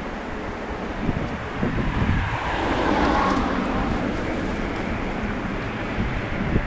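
Wind buffeting the microphone on a moving bicycle: a steady low rumble, with a rushing swell that builds and fades about halfway through.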